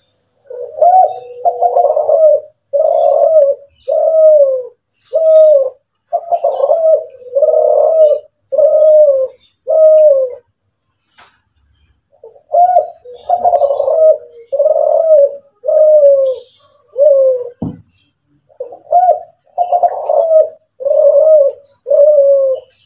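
Kelantan-strain derkuku (spotted dove) cooing (manggung), a long run of loud, rounded coo phrases at about one a second, broken by a pause of about two seconds midway. Faint high chirps from small birds sound behind it, and a brief low thud comes just before the last run of coos.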